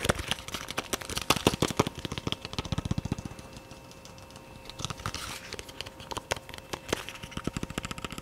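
Fast ASMR tapping in quick runs of short clicks, densest and loudest a second or two in, easing off for about two seconds in the middle, then picking up again more sparsely.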